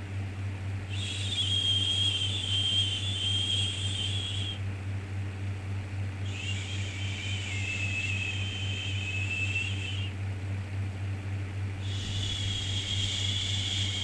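A soothing 'shhh' shushing sound, drawn out for about three and a half seconds at a time with short pauses between, three times, over a steady low hum.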